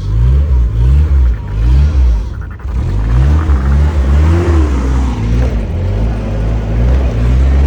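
Mazda B2000 pickup's engine revving in a series of short rising surges over a heavy low rumble, as the two-wheel-drive truck struggles for grip in snow.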